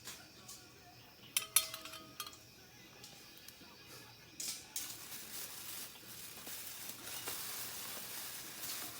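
Metal cookware clinking a few times, with a short ring, then a steady sizzle of food frying in a pan that starts about four and a half seconds in.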